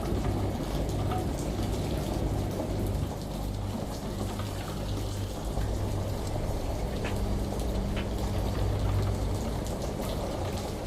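Steady rain hiss with scattered drip ticks over a constant low hum of a washing machine running.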